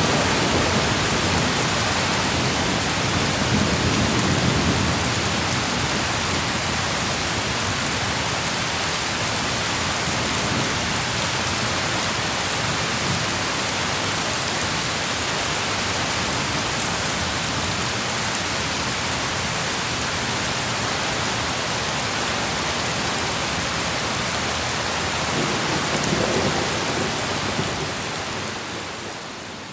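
Thunderstorm: steady heavy rain hissing, with low rolling thunder fading away in the first few seconds and another rumble about 26 seconds in. The sound fades down just at the end.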